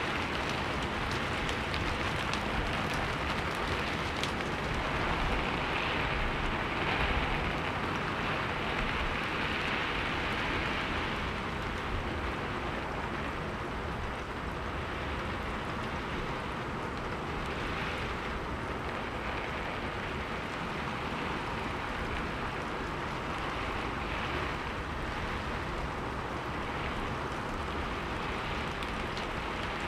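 Steady heavy rainfall, an even hiss of rain on surfaces that swells and eases slightly.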